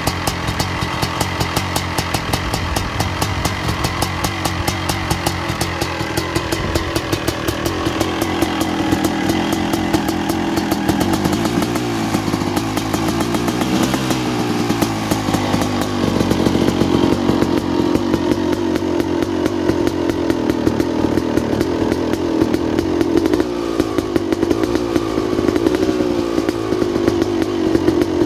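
2006 Suzuki RM250 two-stroke motocross engine with an FMF Gnarly exhaust pipe, running on a cold start after 20 months standing. It runs steadily with a rapid, even firing, and its revs rise and fall around the middle and again near the end.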